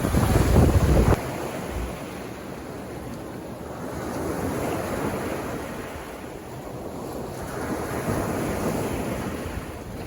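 Sea waves washing onto a beach, swelling and fading twice in slow surges. A gust of wind buffets the microphone with a low rumble in the first second.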